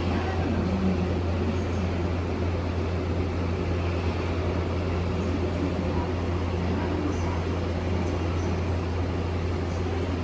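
Steady low hum and rumble of a train, unchanging throughout with no sudden sounds.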